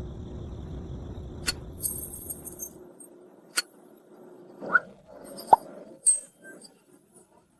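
A low rumble for about the first three seconds, then a few separate sharp clicks and clinks, like small hard objects knocking together.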